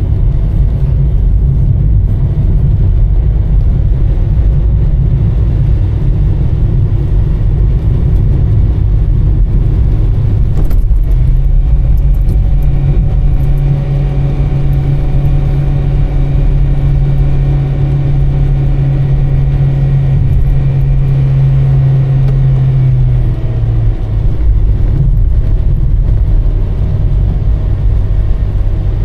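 Car engine and road rumble while driving, loud and continuous. From about a third of the way in, a steady engine hum rises and holds, then drops back about two-thirds of the way through.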